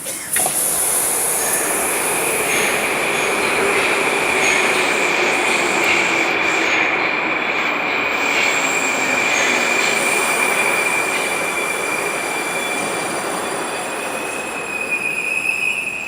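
Moscow Metro train running along the platform, loud rail noise with a steady high-pitched wheel squeal throughout and a lower tone that slowly falls in pitch through the middle; the squeal rises in pitch near the end.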